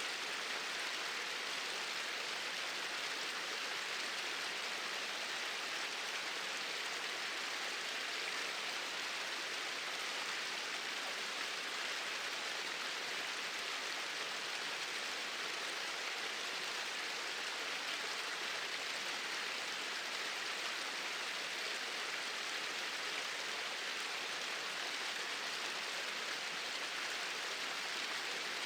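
Small waterfall splashing in a steady flow: an even, unbroken rush of water.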